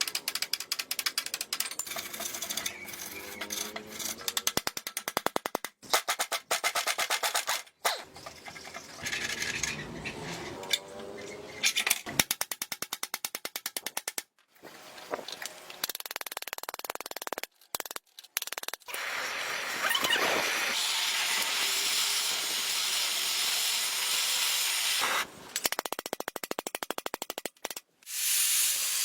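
Ratchet wrench clicking in rapid runs as bolts are turned on a Honda C90 motorcycle, in several short clips joined by abrupt cuts, with background music.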